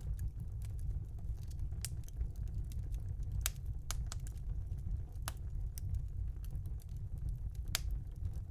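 Wood fire burning in a fireplace: a steady low rumble with irregular sharp crackles and pops, about five louder snaps among fainter ticks.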